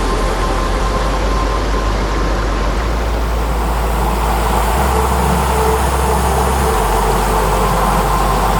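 Steady rush of mountain-stream water flowing close by.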